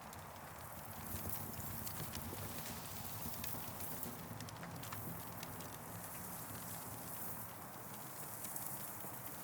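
Campfire burning with frequent small crackles and sharp pops over a steady background hiss.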